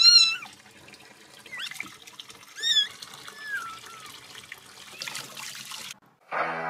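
A small animal's high-pitched chirping calls, several short ones that bend up and down in pitch, over a steady hiss like running water. The sound cuts off suddenly about six seconds in.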